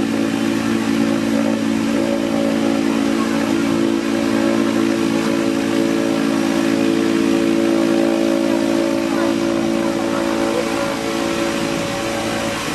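Cessna 208 Grand Caravan's Pratt & Whitney PT6A turboprop running steadily: a constant propeller and engine hum with a turbine hiss.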